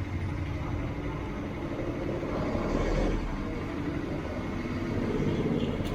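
Steady low rumble of motor vehicle noise, swelling about halfway through and again near the end.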